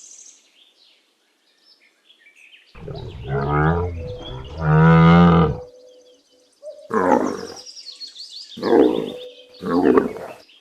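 Yak calling: after a quiet start come two long, deep calls and then three shorter ones.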